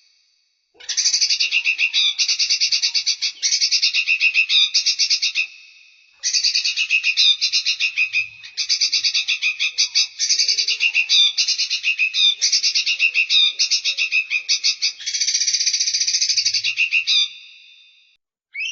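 Recorded songbird song made of fast, rattling trills, each phrase lasting about a second, repeated almost without pause and broken by three short gaps.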